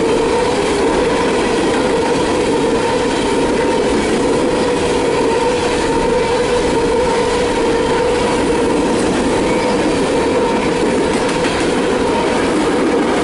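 Empty CSX coal hopper cars rolling past at steady speed: continuous wheel-on-rail noise with a steady whine from the wheels.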